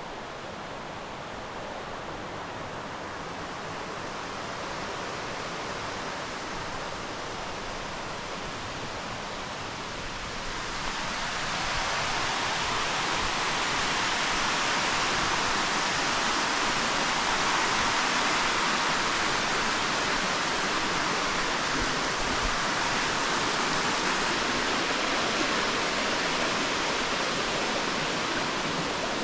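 Steady rush of running water, growing louder about eleven seconds in.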